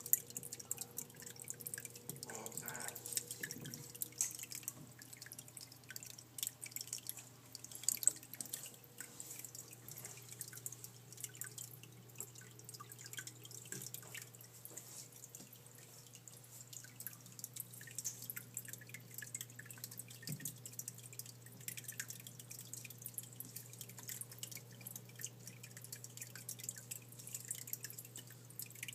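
Small, irregular water drips and light splashes, many a second, over a steady low hum.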